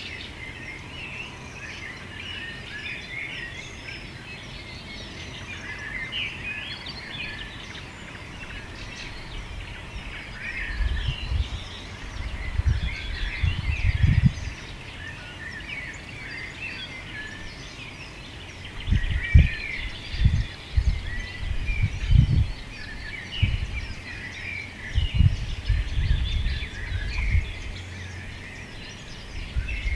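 Many songbirds singing and chirping at once in a dense, continuous chorus. Low rumbling gusts, like wind buffeting the microphone, come in about ten seconds in and again through much of the second half.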